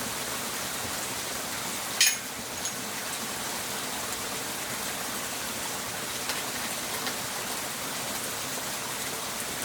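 Steady rushing hiss of running water, with one sharp knock about two seconds in and a few faint ticks after it.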